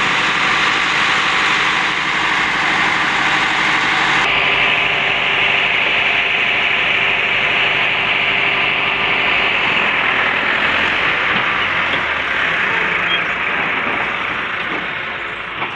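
Heavy diesel engine running steadily, with an abrupt change in the sound about four seconds in.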